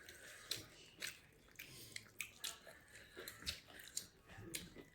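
A person eating fish curry close to the microphone: chewing and biting, with irregular short wet mouth clicks and smacks.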